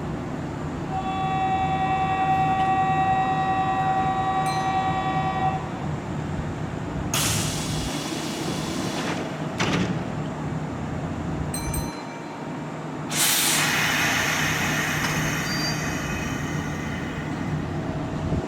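Kintetsu local train departing from a station platform, its steady electrical hum running throughout. A held chord-like tone sounds for about four seconds near the start. Two loud air hisses follow, about seven and thirteen seconds in.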